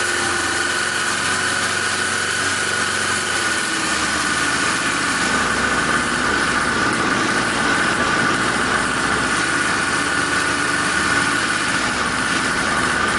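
Small Chinese 50cc two-stroke engine running steadily, with a little more low rumble from about four seconds in.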